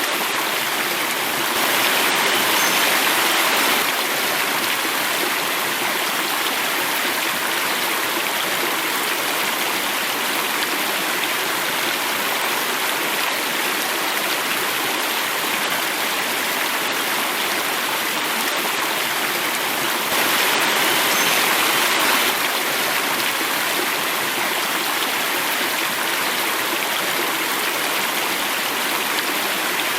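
Water flowing and falling in a cascade: a steady rushing noise that swells a little louder twice for about two seconds each.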